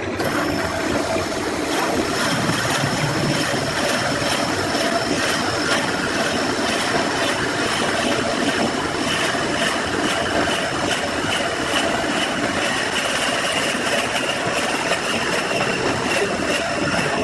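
A woodworking power tool running steadily: a constant high whine with a dense hissing noise over it.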